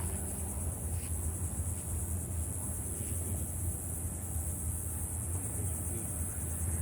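Steady outdoor ambience: a continuous low hum under a high, rapidly pulsing buzz, with no clear single event.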